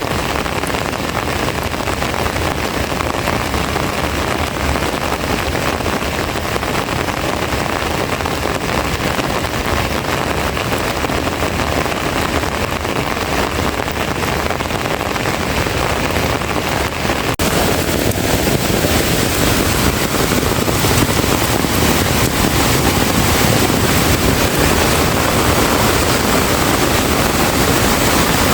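Heavy rain pouring down in strong wind, a loud steady rushing hiss. About seventeen seconds in, the sound changes abruptly to a louder, brighter downpour.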